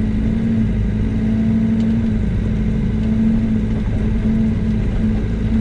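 Yanmar ViO80 excavator's diesel engine running steadily at low idle, a constant hum.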